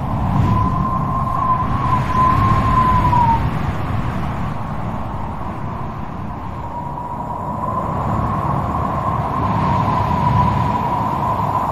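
Strong wind howling in gusts: a thin whistling tone that wavers around one pitch, heard in the first few seconds and again through the second half, over a low rumble that swells and eases.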